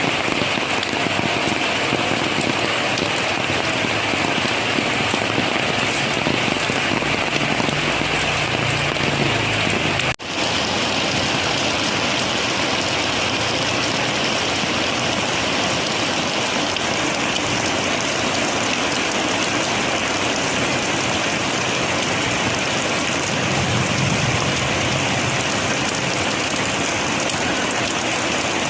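Steady heavy rain falling, an even hiss of drops, with a momentary drop in level about ten seconds in.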